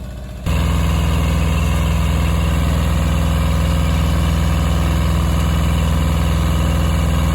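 Old tractor's engine running at a steady speed, suddenly much louder about half a second in and holding an even, unchanging note after that.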